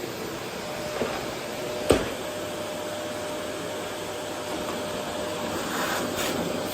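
Vacuum cleaner running steadily over a wooden floor, with a sharp knock about two seconds in and a smaller one just before it.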